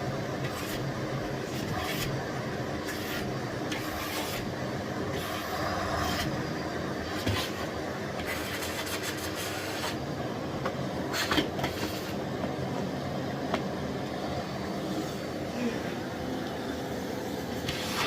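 Miele Blizzard CX1 Cat & Dog PowerLine bagless cylinder vacuum cleaner running steadily, with several short clicks and knocks over the motor noise.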